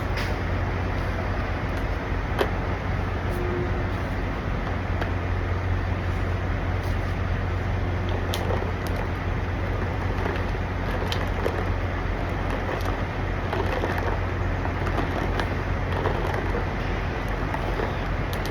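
Steady low hum of idling diesel semi trucks, with a few faint clicks.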